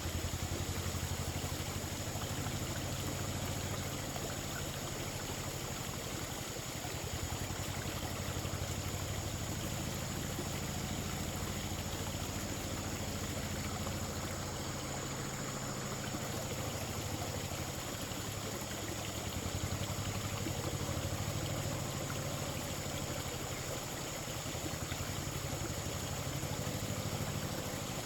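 An engine running steadily at an even speed, a low continuous hum with no revving or stops.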